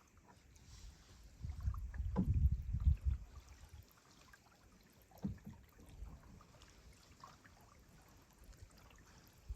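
Canoe being paddled on a creek: paddle strokes splashing and pulling through the water, the loudest from about one and a half to three seconds in and another short one a little after five seconds.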